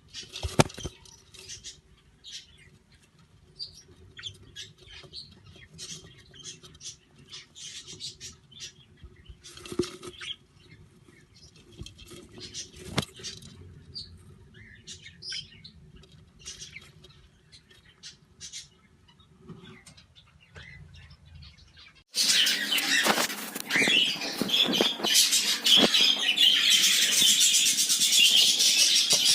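Pet budgies chirping now and then, with a few sharp taps and a low steady hum beneath. About 22 seconds in, it switches abruptly to loud, continuous chattering of many budgies.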